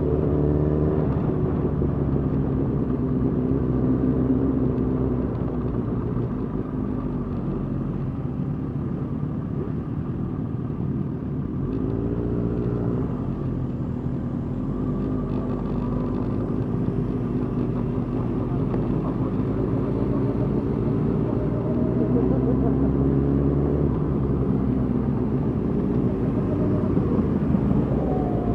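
Suzuki GSX-R 1000 inline-four motorcycle engine running at low parade speed, a steady low engine note that rises and falls with the throttle a few times and climbs near the end.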